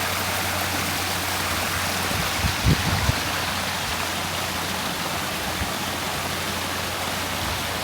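Steady rush of running water, as from a small stream or water feature, with a few low bumps a little before the three-second mark.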